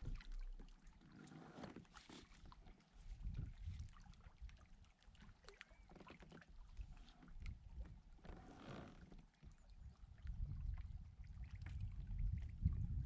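Water sloshing and irregular knocks and clicks of handling aboard a fishing kayak, with a low rumble growing louder over the last few seconds.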